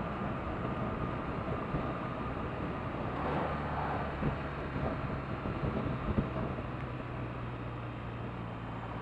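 2017 BMW R1200RT's boxer-twin engine running steadily under way, with wind and road noise. The engine note shifts about three seconds in and again near the end.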